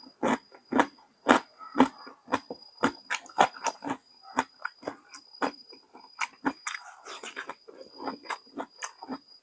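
Close-miked eating: a person chewing a mouthful of food, with wet smacking and crunching clicks coming irregularly several times a second.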